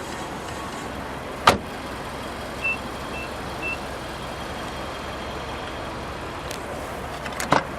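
A car door on a Nissan Juke Nismo shuts with one loud thud, then the car sounds three short, high, even beeps. Near the end come a few clicks and a knock from a door latch as another door is worked.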